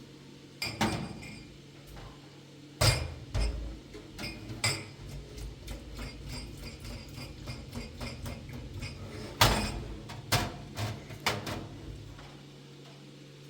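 An irregular series of sharp knocks and clinks of hard objects being handled, the loudest about three seconds in and again past nine seconds, over a steady low hum.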